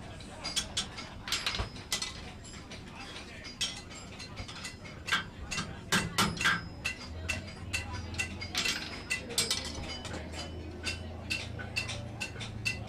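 Blacksmith's hammer blows on hot steel and anvil while forging, coming as many sharp, irregular strikes with a few louder ones about six seconds in, over a steady low hum.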